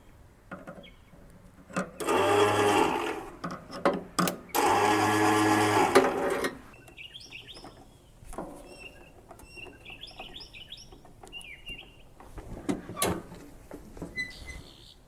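Murray lawn mower's electric starter cranking the engine twice, a short crank of about a second and then a longer one of about two seconds, without the engine catching and running. Birds chirp in the quiet after the cranking.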